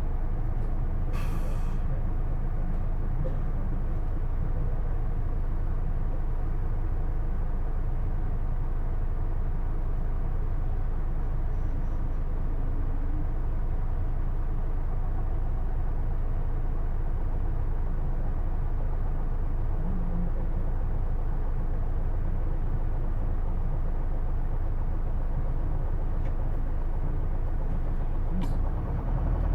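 Hino Blue Ribbon II city bus's six-cylinder diesel engine running steadily, heard from inside the cabin, with a short air hiss from the brakes about a second in. Near the end the engine starts to rev up.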